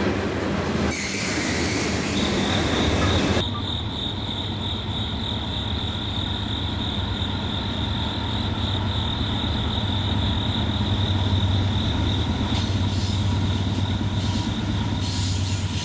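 Freight cars rolling past on the rails. About three seconds in, this gives way to the steady low rumble of an approaching Norfolk Southern freight led by diesel locomotives. A steady high chirping of insects runs over it.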